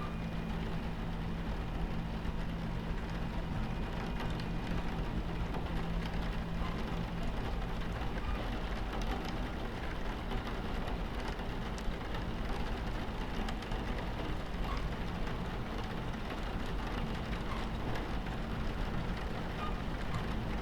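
Steady low rumble of a train running along the tracks, heard from inside the carriage, mixed with rain falling against the window. A low hum in the rumble fades out about eight seconds in.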